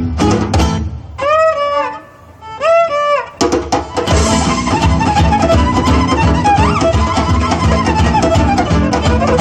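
Live gypsy-style band music: a few sharp strummed chords, then two long sliding violin phrases over a near pause, and from about three and a half seconds in the full band comes in playing fast and dense, with the violin carrying the melody on top.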